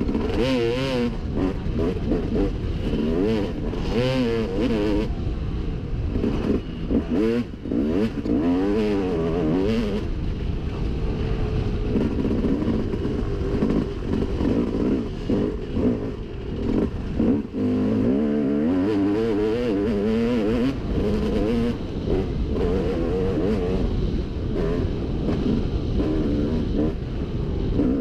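Dirt bike engine revving up and down while being ridden on a trail, its pitch rising and falling over and over.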